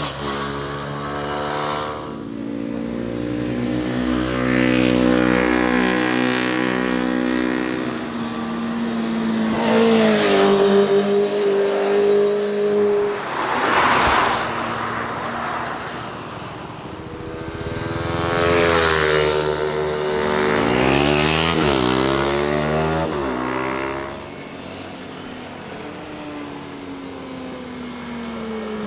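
Several motorcycles passing one after another on a winding road, their engines revving up and down through the gears. Each one swells as it nears, then drops in pitch as it goes by.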